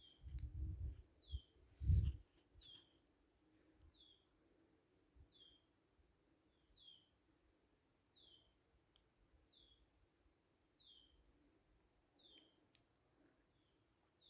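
A bird calling over and over, each call a short high steady note followed by a falling note, repeating about every three-quarters of a second. Low rumbling thumps in the first two seconds, the loudest at about two seconds in.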